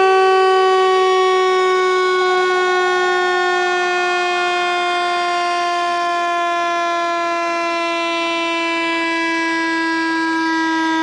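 Synthesized speaker-cleaning tone for pushing water out of a phone speaker: one buzzy, overtone-rich tone held steadily while sliding slowly down in pitch.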